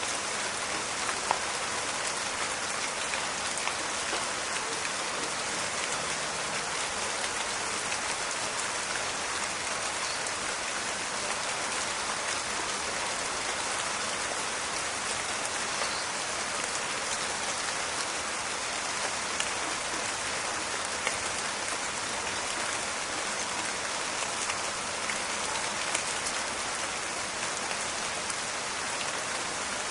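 Steady rain in a forest, falling with a dense crackle of drops, with now and then a sharper single drop hit standing out.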